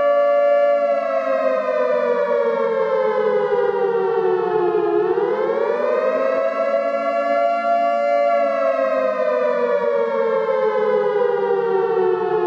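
Civil defense siren sounding a nuclear attack warning. Its wailing pitch holds, slides slowly down, rises again about halfway through, holds briefly, then slides down once more.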